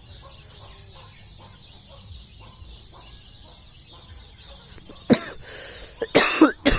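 Steady high chirring of crickets or other insects with faint short peeps repeating underneath. Near the end, a few loud harsh bursts with falling pitch break in.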